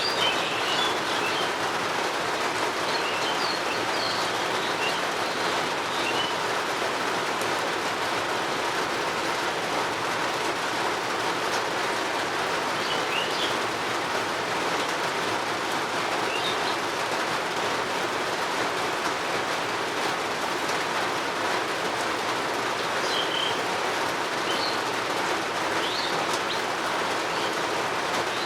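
Steady rain falling, with scattered short bird chirps heard now and then over it.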